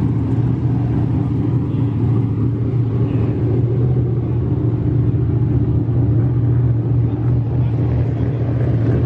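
Car engine running at a steady, unchanging speed, a constant low hum with no revving.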